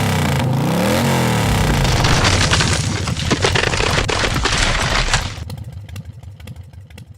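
Motorcycle engine revving up and down a few times, then running hard and rough for several seconds. About five seconds in it drops away and dies down, with scattered clicks as it fades.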